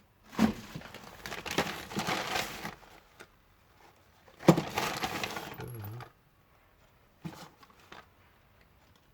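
Rummaging through a box of car parts: two bouts of rattling and rustling with small metal parts clinking, starting about half a second in and again around four and a half seconds, then a single small click.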